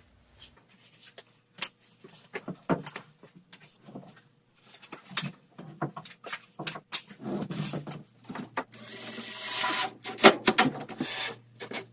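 Irregular wooden knocks, taps and clicks as a door is handled and shimmed into its frame. A denser scraping stretch of about a second comes near the end.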